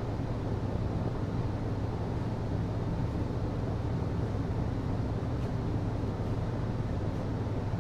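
HVAC system running: a steady low hum under an even rush of air noise, unchanging throughout.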